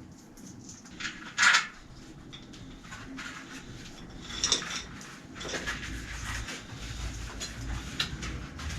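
Scattered clinks and knocks of hard objects being handled, with a louder brief rasping noise about a second and a half in and another about four and a half seconds in.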